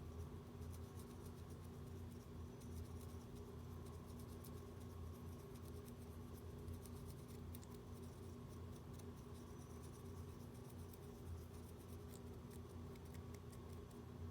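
Faint, scattered ticks and light scrapes of small hand tools working on a smartwatch during a button repair, over a steady low electrical hum.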